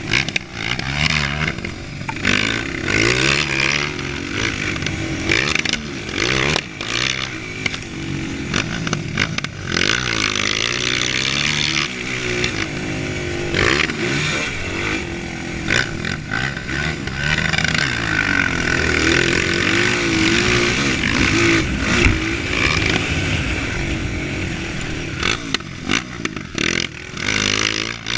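Dirt bike engine revving up and down over and over while riding, with rattling knocks throughout.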